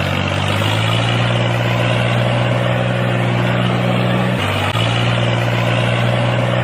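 A motor running steadily at a constant low pitch, dropping briefly about four and a half seconds in before picking up again.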